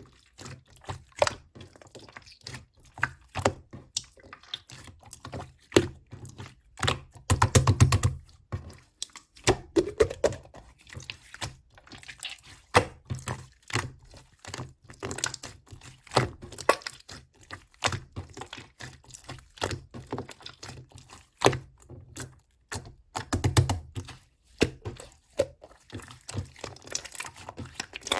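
A long run of short, sharp clicks and taps at an uneven pace, with two denser clattering spells, one about seven seconds in and one about twenty-three seconds in.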